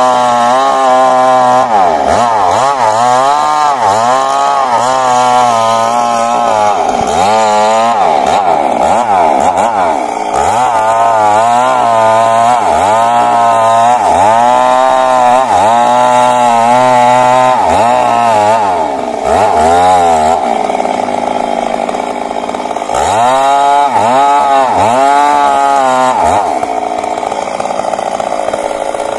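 Stihl MS 382 two-stroke chainsaw cutting wood, its engine pitch repeatedly sagging under load and picking back up. It runs more evenly for a few seconds after about twenty seconds, bogs and recovers a few more times, then runs evenly again near the end.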